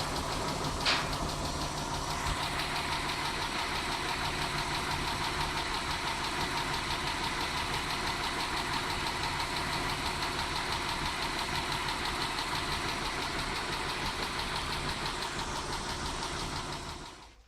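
Mitsubishi 6G72 3.0-litre V6 idling with a fast, even tapping from the valvetrain, which the owner suspects is the hydraulic lifters, or else a worn engine. The engine is switched off near the end and the sound dies away.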